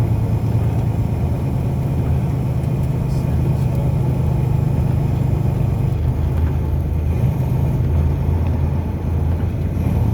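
Car driving at a steady speed: a steady low engine drone with road noise underneath.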